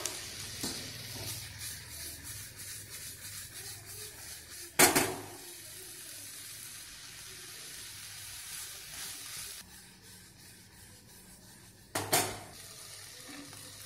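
Sweet corn, onion and capsicum sizzling in butter in a pan over a high flame, with a spatula stirring and scraping through them. Two sharp knocks of a utensil or the pan, the louder one about five seconds in and another near the end, after the sizzle has died down.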